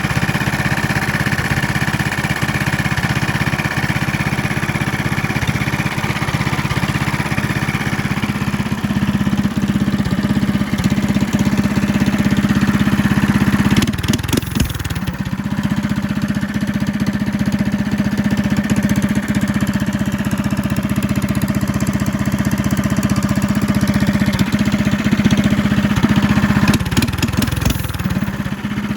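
A go-kart's single-cylinder 270cc four-stroke Wiltec engine running steadily through a loud aftermarket exhaust. Its note changes briefly about halfway through and again near the end.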